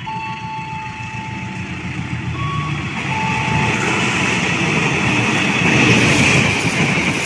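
A passenger train hauled by a CC 203 diesel-electric locomotive runs through the station at speed. Its rumble and rail noise build steadily and are loudest about six seconds in as the coaches pass. In the first three seconds a few steady electronic tones step in pitch over the approaching train.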